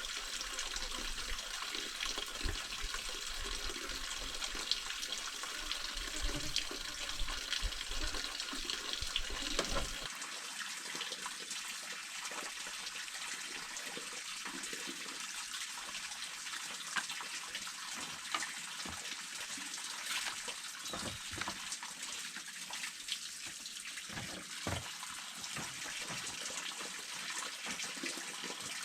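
Steady rush of running water. A low rumble underneath drops away about ten seconds in.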